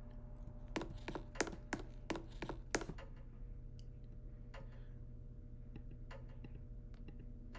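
Computer keyboard keys clicking, a quick run of presses over the first three seconds and then a few fainter, sparser taps, over a steady low hum.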